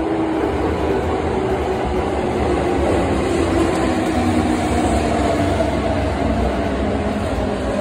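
Kintetsu electric train pulling in alongside an underground station platform: a steady loud rumble of wheels on rail, with a motor whine that falls in pitch as the train slows.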